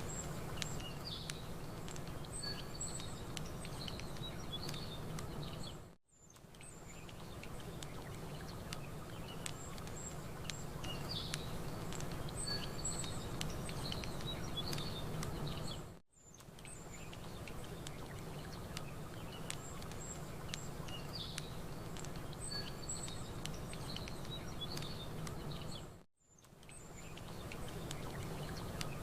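Looped nature ambience: a campfire crackling with scattered small snaps, small birds chirping high, and a steady low wash like gently lapping water. The mix drops out briefly and fades back in about every ten seconds, three times, repeating the same bird calls each time.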